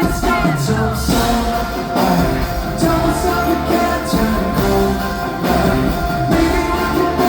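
Live pop-rock band playing loudly with drums and a singing voice, recorded from the crowd at a concert.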